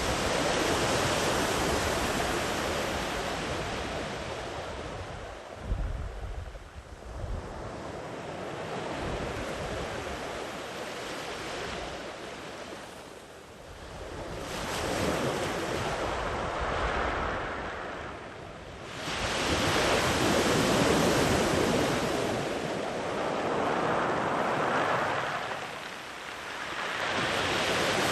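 Ocean surf: gently rolling waves washing far up a sandy beach, the rush swelling and fading several times as each wave comes in and draws back. A few brief low rumbles of wind on the microphone come about six seconds in.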